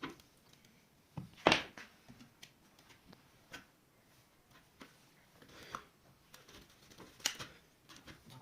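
Scattered sharp knocks and clicks, like objects being handled and set down, the loudest about one and a half seconds in and another sharp one near the end.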